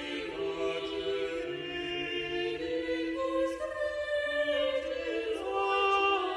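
Renaissance choral polyphony: several voices singing long, overlapping held notes that shift in steps.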